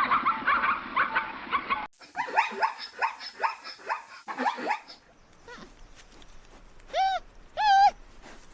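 Calls of small domestic animals: first a dense jumble of many overlapping calls, then about two seconds in a run of quick, high, falling cries, and near the end two separate high calls that rise and fall.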